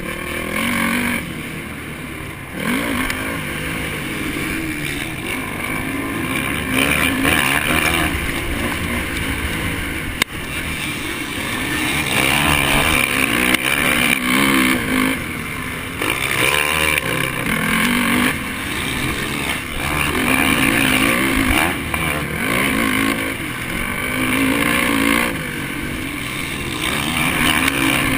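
Honda 450 four-stroke motocross engine ridden hard, its pitch climbing and dropping over and over with the throttle and gear changes. A single sharp knock about ten seconds in.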